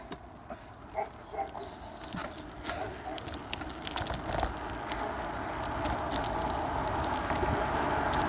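Bicycle coasting downhill, heard from a phone mounted on the handlebars: a rush of wind and tyre noise grows steadily louder as it gains speed, with scattered clicks and rattles.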